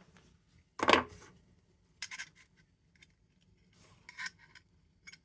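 Metal parts of an Embury Air Pilot lantern clinking and scraping as they are forced back together by hand: one loud clink with a short ring about a second in, then lighter clicks and rubs.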